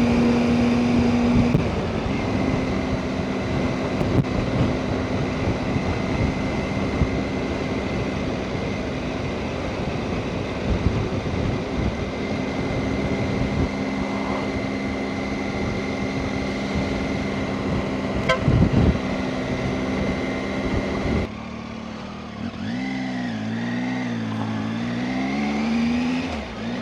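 Motorcycle engine running at a steady cruise under heavy wind rush on the microphone. About 21 seconds in, the wind noise drops suddenly and the engine note rises and falls several times.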